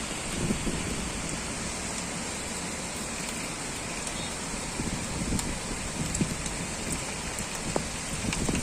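Heavy rain falling steadily, a dense hiss with scattered drops ticking and pattering on nearby surfaces.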